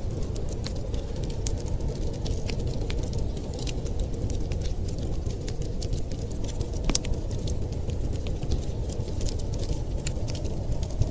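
Wood fire crackling with irregular sharp pops, one louder snap about seven seconds in, over a steady low rushing noise of blizzard wind.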